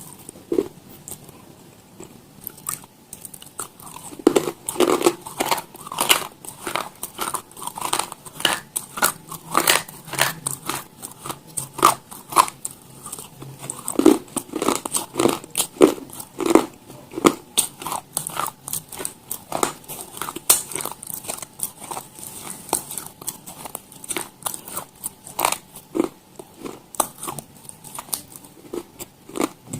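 Close-miked ASMR eating: a person biting into and chewing crunchy food, with many sharp, irregular crunches, sparse for the first few seconds and then coming several a second.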